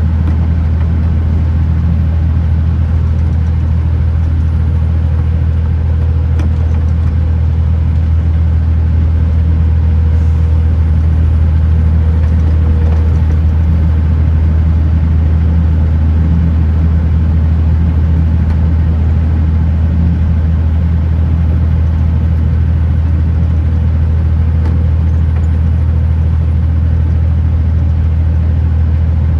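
Kenworth T909 truck's diesel engine droning steadily at a constant pace, with a steady low hum under an even wash of road noise.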